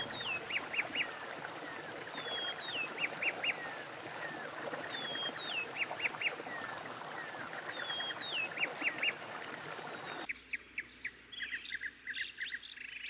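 Birds calling over a steady background hiss: one phrase, a short falling whistle followed by three or four quick high notes, repeats about every two and a half seconds. About ten seconds in, the background drops away and a run of quicker chirps carries on.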